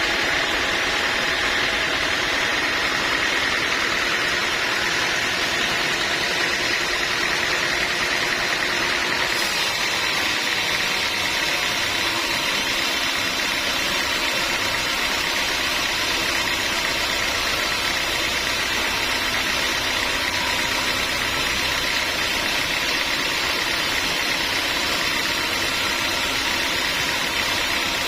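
Sawmill machinery running steadily: a continuous mechanical noise with a steady whine, unchanged in loudness.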